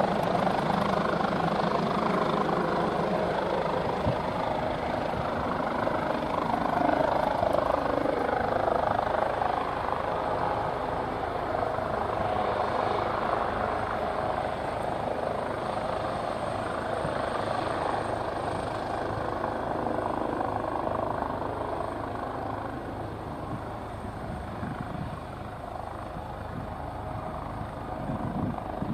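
Airbus H145 helicopter, a twin-turboshaft air ambulance with a shrouded Fenestron tail rotor, running with a steady rotor and turbine noise that gradually gets quieter.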